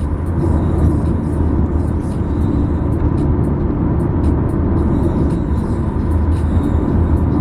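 Steady low road rumble of a car heard from inside the cabin while driving.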